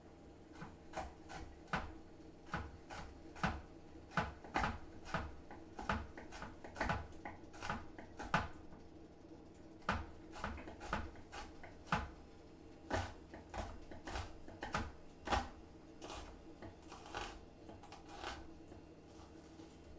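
Knife chopping food on a cutting board: a long run of sharp, uneven knocks, about two a second.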